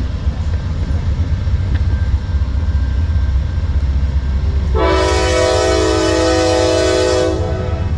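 Freight train rumbling low, then the lead AC44C6M diesel locomotive's multi-chime air horn sounds one long chord of about two and a half seconds, starting about five seconds in, a warning blast for the grade crossing the train is entering.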